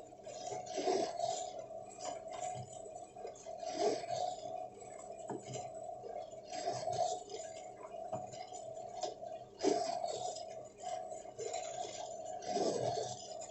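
Irregular light clicks and knocks over a steady hum.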